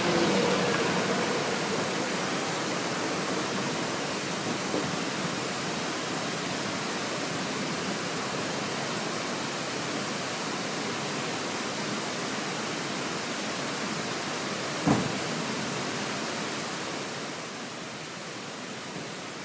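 Mountain stream water rushing steadily, with a single sharp knock about fifteen seconds in.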